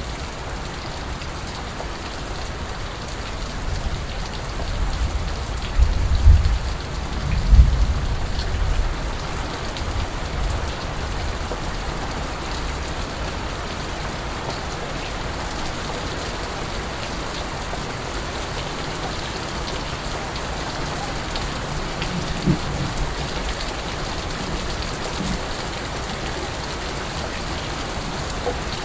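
Steady rain falling, an even hiss of drops. A low rumble swells in and out about four to ten seconds in, and a brief low thump comes about two-thirds of the way through.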